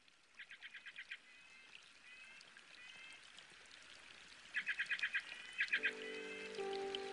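Birds calling: bursts of rapid repeated notes and short rising whistles. Soft held chords of background music come in near the end.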